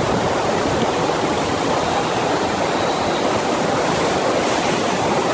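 Steady rush of water from a FlowRider sheet-wave machine, pumped water pouring continuously over the ride surface.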